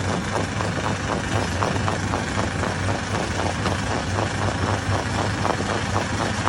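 Hammer-type stone crusher running steadily: a low machine hum with a rapid, irregular knocking and clatter running through it.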